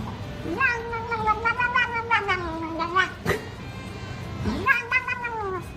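A cat yowling in two long, drawn-out calls: the first lasts about two and a half seconds and the second, shorter one comes near the end.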